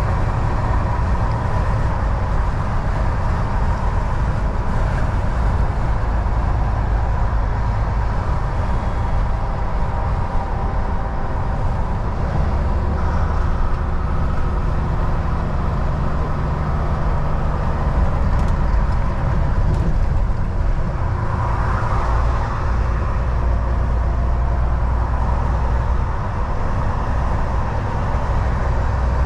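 Volvo VNL 760 semi truck cruising on the highway: a steady engine drone mixed with tyre and road noise, its low engine note shifting slightly about 13 seconds in.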